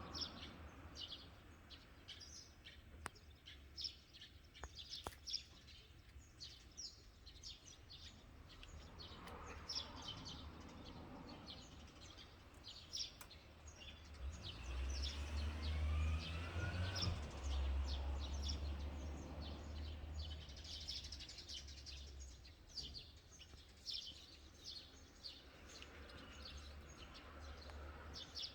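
Small birds chirping repeatedly throughout. About halfway through, a vehicle passes on the road: a low rumble swells up, becomes the loudest sound, then fades away.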